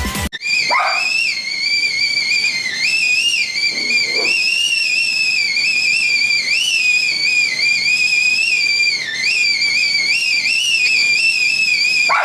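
Stovetop kettle whistling at the boil: one continuous high whistle that wavers slightly in pitch.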